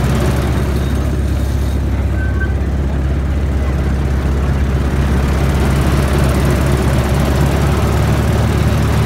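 Small ride-on train running steadily along its track: a low, even drone from the locomotive and rolling cars.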